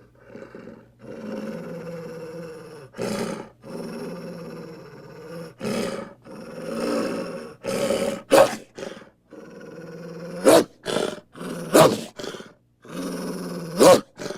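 A series of growling, roaring, animal-like vocal sound effects, played as short separate clips with sudden cuts between them. Several brief, much louder cries punctuate them in the second half.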